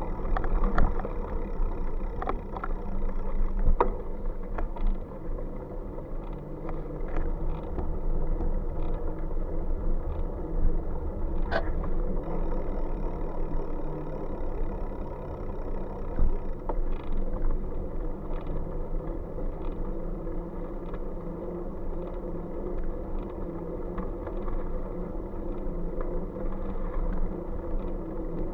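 Steady riding noise from a bike on the move: a low rumble and wind on the microphone, with scattered clicks and rattles.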